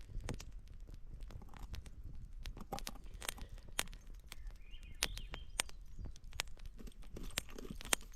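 Campfire crackling, with irregular sharp pops scattered through it.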